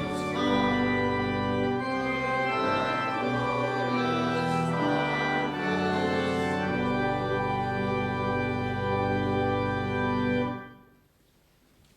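Church organ playing sustained chords that change every second or two; the music stops about ten and a half seconds in and the sound dies away in the church's echo.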